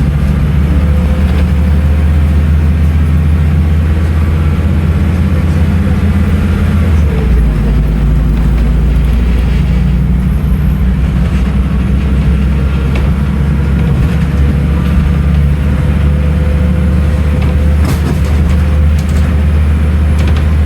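Scania N310UA articulated city bus's diesel engine running under way with a steady low drone. About seven seconds in, the engine note drops lower.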